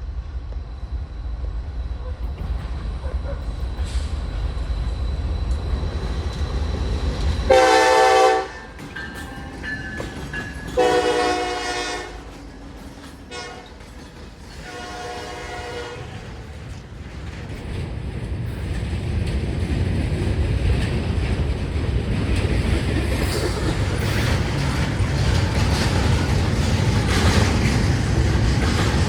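Diesel freight locomotive air horn sounding three blasts, the last one fainter and longer. Then the low rumble of the train drawing closer grows louder, with wheels clicking over the rail joints.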